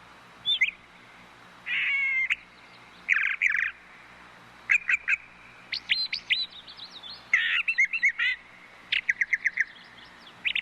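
Brown thrush singing: a run of short, varied phrases with brief pauses between them. The phrases mix quick trills, sweeping whistles and a raspy, buzzy note.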